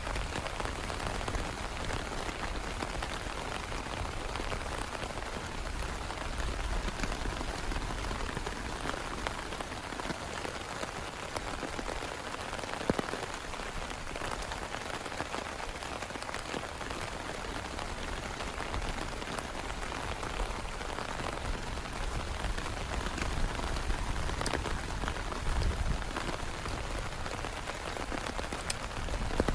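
Heavy rain falling steadily, a dense patter of drops, with one sharper tap about halfway through.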